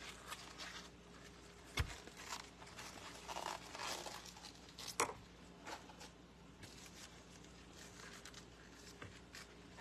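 Leaves being peeled off a previously frozen head of cabbage: scattered crisp tearing and crinkling strokes, with two sharp knocks about two seconds in and again near the middle.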